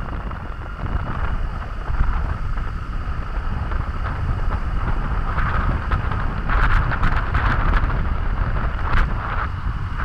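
Wind buffeting the built-in microphone of a helmet camera on a moving scooter: a heavy, steady low rumble with a hiss over it, turning rougher and crackly about six to eight seconds in.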